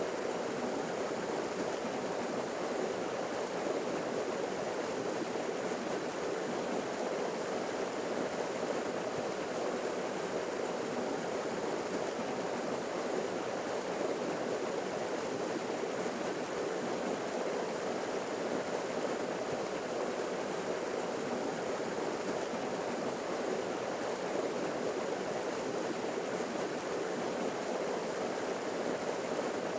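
Forest waterfall splashing steadily, a constant rush of falling water with no breaks or changes.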